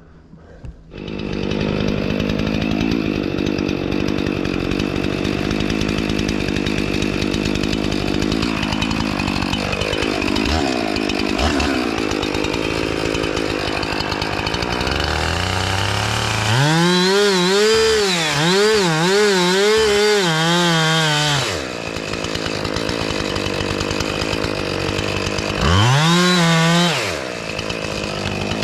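Two-stroke chainsaw working a felling cut in a pine tree. It runs steadily, and in two stretches, a long one about two-thirds through and a short one near the end, it is at high revs with the pitch swinging up and down.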